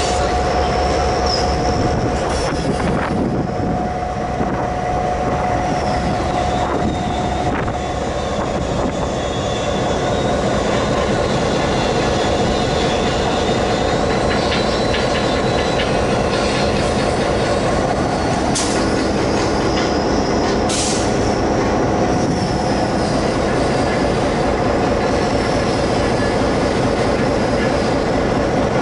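A train hauled by an orange diesel locomotive rolls slowly past close by with a steady rumble. High wheel squeal rises and falls in pitch, and the wheels click over the rails. There are two sharp clanks about two-thirds of the way through.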